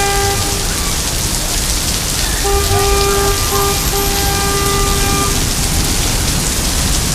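Heavy rain pouring down in a steady, dense hiss. A pitched tone sounds briefly at the start and again in three blasts around the middle.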